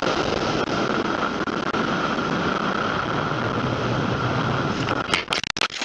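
Steady road and engine noise of a car driving, as picked up by a dashcam, broken by a few sharp clicks and dropouts near the end.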